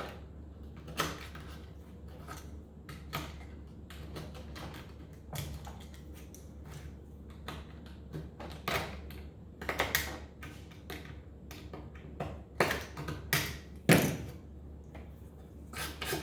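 A blade scraping and chipping brittle old glue off the wooden end of a piano keystick: irregular sharp clicks and scrapes, the loudest cluster near the end, over a steady low hum.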